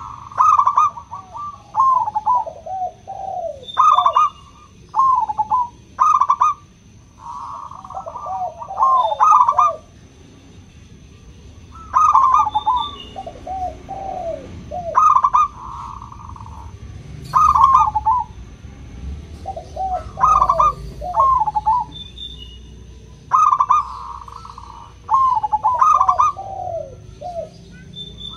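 Zebra dove (local perkutut) singing its cooing song over and over: short clusters of quick, rippling notes that drop in pitch, a phrase every one to two seconds.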